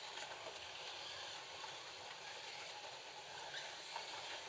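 Several FLY slot cars running laps on the track: a steady whir and hiss from their small electric motors and the pickups on the rails.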